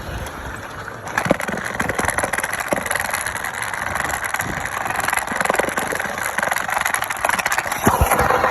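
Garden-scale model freight train running on outdoor track, a dense rattle of wheels and cars with many small clicks. It grows louder about a second in and is loudest near the end.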